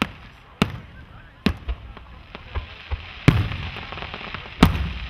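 Fireworks bursting: about six sharp bangs at uneven intervals of half a second to a second, the loudest about three seconds in and another near the end, the biggest followed by a low rumbling tail.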